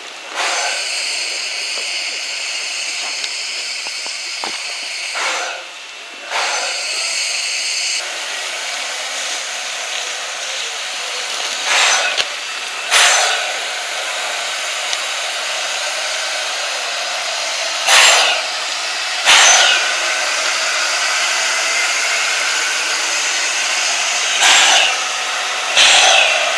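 Steady, loud rushing hiss from a steam train under way. Pairs of short, louder bursts come about a second and a half apart, repeating every six seconds or so in the second half.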